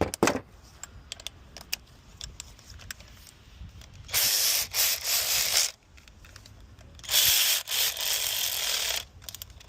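Cordless electric ratchet running in two bursts, about a second and a half and then two seconds, snugging down freshly hand-threaded bolts on the thermostat housing. A few light clicks of tools come before.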